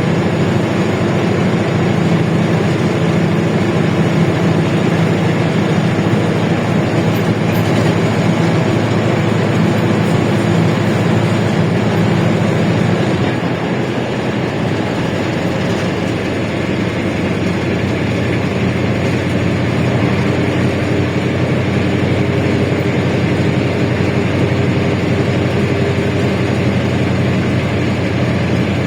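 Inside a LiAZ-677M bus on the move: the steady run of its V8 engine with drivetrain and body rattle. About halfway through the engine note drops to a lower pitch and gets slightly quieter, as the bus shifts gear or eases off.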